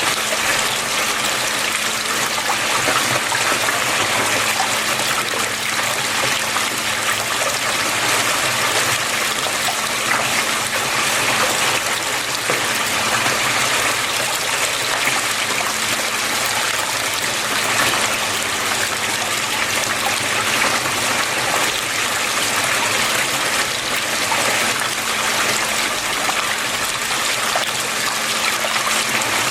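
Water flowing and splashing steadily, an even, continuous rush with no breaks, and a faint low hum underneath.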